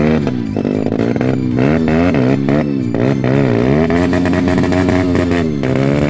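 Dirt bike engine revving up and down repeatedly, its pitch rising and falling several times, as the rider works the throttle to climb a wall of stacked tyres.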